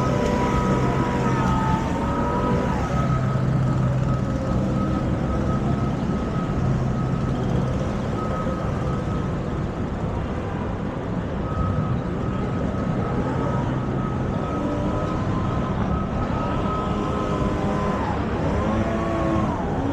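Busy city street ambience: steady traffic and engine hum, with passers-by talking near the start and again in the second half. A thin high tone sounds on and off through it.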